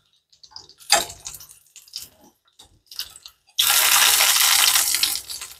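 Zucchini, jalapeños and garlic sizzling in hot olive oil in a frying pan, with metal tongs clicking against the pan. About three and a half seconds in, the sizzle jumps to a loud hiss for about a second and a half, then fades.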